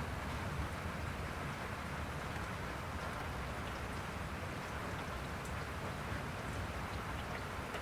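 Steady rain falling: an even hiss with a fine patter of drops and a low rumble underneath.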